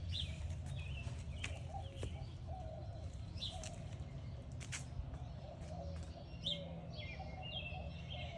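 Birds chirping in short scattered calls over a steady low background hum.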